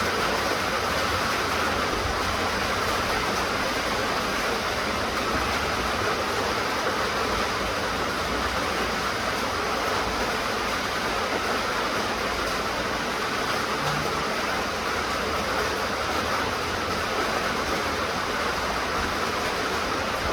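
Steady rain falling, a constant even hiss with no distinct drops or thunder.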